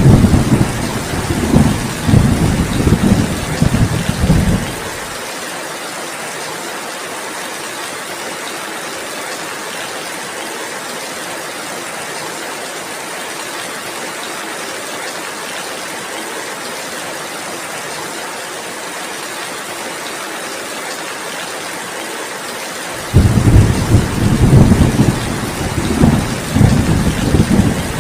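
Heavy rain falling steadily, with rolling thunder rumbling low at the start, dying away about five seconds in, and rolling in again about 23 seconds in.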